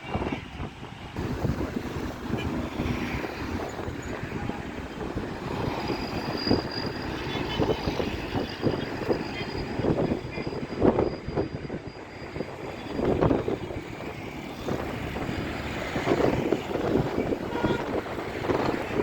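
Continuous road traffic: cars and other vehicles passing steadily, the noise swelling and easing as they go by.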